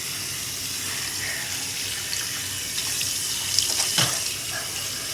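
Tap water running steadily into a sink as cleanser is rinsed off a face, with a few louder splashes about three and a half to four seconds in.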